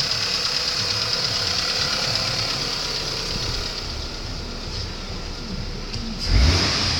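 2002 Dodge Stratus coupe's 2.4-litre four-cylinder engine idling steadily, briefly louder about six seconds in.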